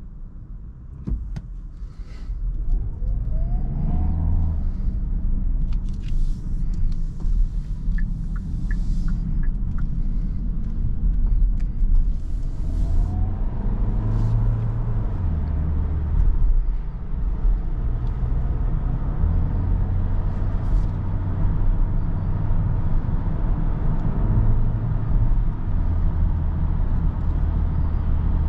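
Cabin sound of a Kia Sorento's 1.6-litre turbocharged petrol four-cylinder hybrid drivetrain accelerating away, rising in loudness about a second in. The engine note rises and drops back several times as the six-speed automatic changes up, over steady road and tyre noise.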